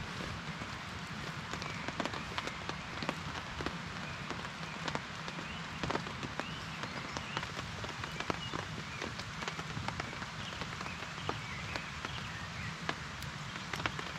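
Rain falling steadily, with many separate drops ticking sharply at irregular moments against a constant hiss.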